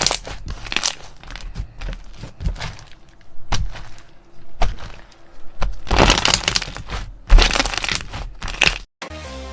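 Slime being squeezed and worked by hand, giving irregular bursts of crackling and popping.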